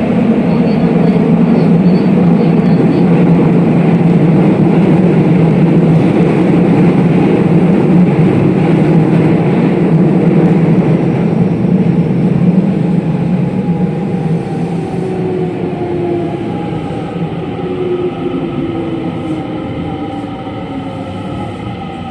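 Running sound inside a JR West 207 series electric commuter train: loud wheel-on-rail and car-body noise at speed. From about halfway the noise eases and the traction motors' whine slides down in pitch as the train slows.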